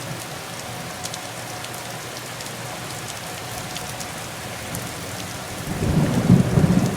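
Steady rain falling, then a loud rumble of thunder breaking in near the end.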